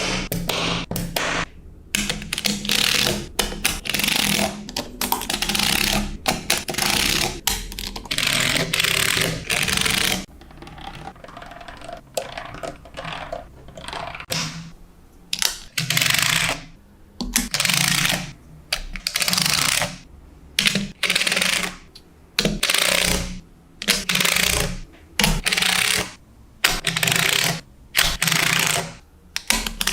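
Small magnetic balls clicking and rattling together in repeated short bursts, about one a second, as they are snapped into place and shaped, with a quieter stretch of softer clicking around the middle.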